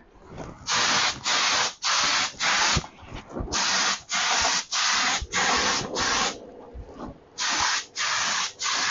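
Paint spray gun spraying clear coat in short hissing bursts, about two a second, each trigger pull a quick pass, with a couple of brief pauses between runs.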